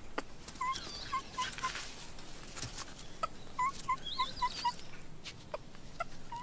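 Monkeys calling: two runs of short, high chirping calls, about four or five quick notes each, the first about a second in and the second about four seconds in, with a few faint clicks between.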